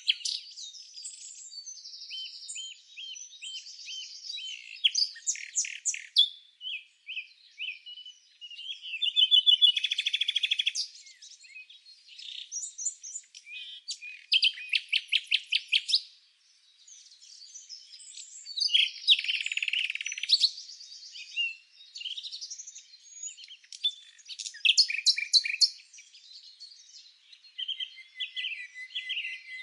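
Songbirds chirping and singing, with many overlapping calls and quick trills.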